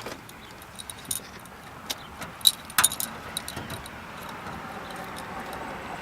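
A bunch of keys jangling and clinking against a pickup truck's toolbox lock as someone tries to unlock it, in a few scattered sharp clicks during the first half.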